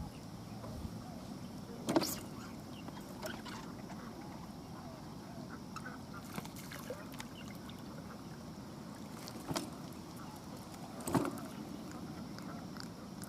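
Steady wind and choppy water lapping at the bank, with three sharp knocks: one about two seconds in and two close together near the end.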